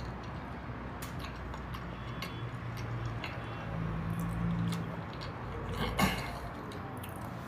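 A person chewing a mouthful of stew close to the microphone, with soft mouth sounds and a few small clicks.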